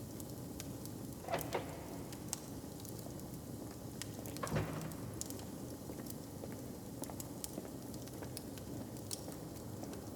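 Fire crackling over a low steady rumble, with scattered small pops and two louder pops, one about a second and a half in and one about four and a half seconds in.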